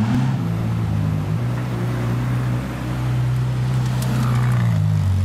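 A vehicle engine running steadily at low revs, its pitch stepping slightly about a second and a half in and again near the end.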